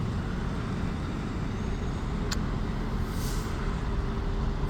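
Heavy road traffic of trucks and cars rumbling steadily past. A sharp click comes just after two seconds in, and a brief high hiss about a second later.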